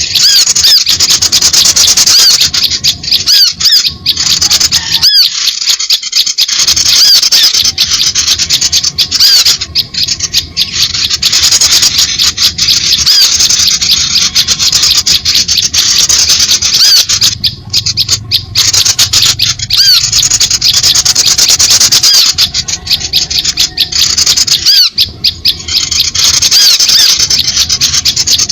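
A dense, loud chorus of many small birds chirping and twittering without pause, a noisy flock call of the kind used to lure small birds.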